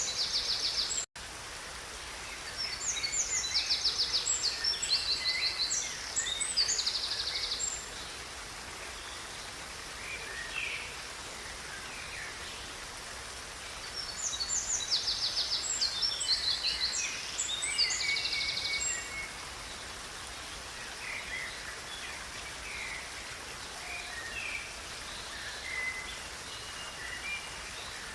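Songbirds singing over the steady rush of river water: a bird repeats a song of quick trilled phrases twice, with softer chirps from others in between. The sound drops out for an instant about a second in.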